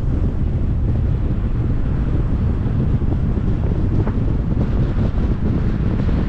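Wind buffeting the microphone of a car-mounted camera while a 2021 Jeep Compass drives along, over a steady low rumble of road noise.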